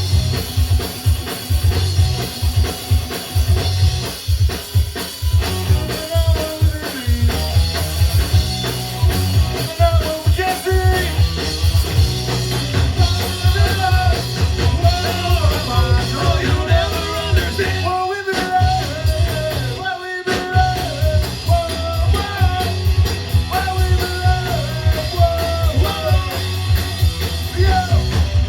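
Rock band playing live: drums, guitars and a singer, with two short stops in the music about two-thirds of the way through.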